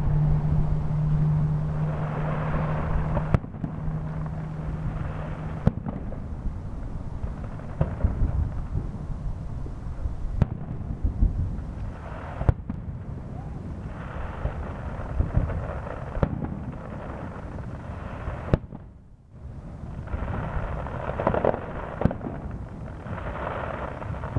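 Aerial fireworks shells bursting in a public fireworks show: sharp bangs every two or three seconds over a continuous low rumble.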